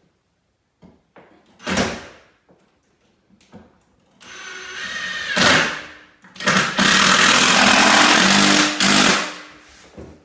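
A handheld power tool running in two bursts: a shorter one about four seconds in and a longer, louder, steady run after a brief pause. A single knock comes before them.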